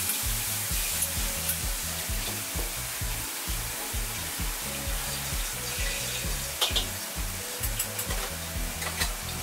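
Sliced meat and vegetables sizzling steadily in a wok, with a few sharp clicks near the end.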